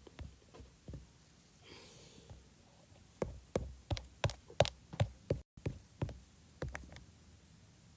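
Computer mouse clicked over and over: about ten sharp clicks in quick succession, starting about three seconds in and lasting some three or four seconds, with a faint breath before them.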